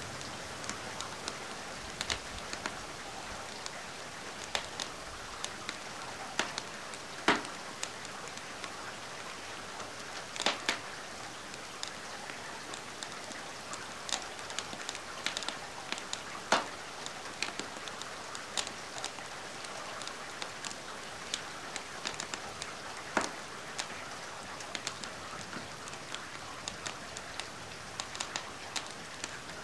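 Steady rain hiss mixed with a crackling wood fire in a fireplace: sharp pops come every second or so, a handful louder than the rest.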